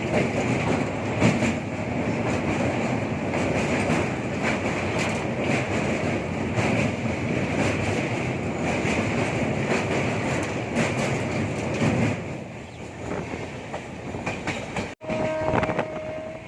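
Passenger express train running on the track, its wheels clicking over rail joints through a steady rolling rumble. Near the end the sound breaks off abruptly and a steady horn tone sounds.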